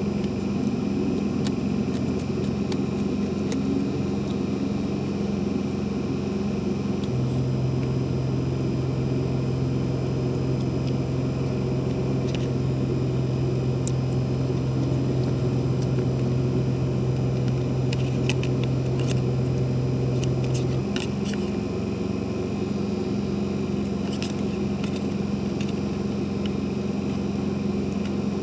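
A steady motor drone that holds one pitch, drops lower about seven seconds in and rises back to its first pitch about twenty-one seconds in, with a few faint clicks over it.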